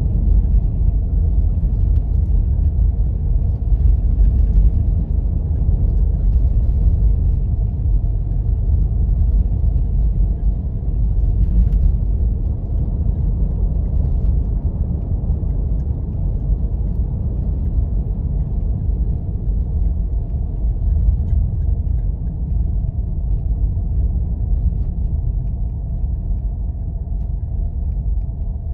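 Steady low rumble of a Jeep driving on snow-covered roads, easing off gradually in the second half, with a few faint ticks.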